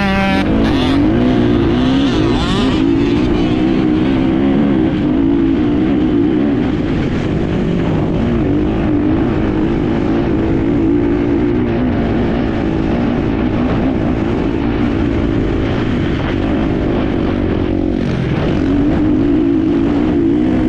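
Enduro motorcycle engine running under way, heard on board, its note holding fairly steady and wavering with the throttle, dipping briefly and picking up again near the end, over a constant rush of wind and riding noise.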